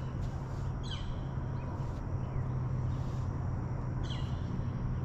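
A bird calls twice, each a quick falling note, about a second and four seconds in, with fainter calls between. Under it runs a steady low hum.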